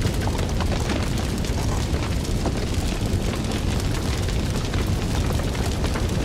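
Fire burning: a steady low rumble with many small crackles and pops scattered throughout.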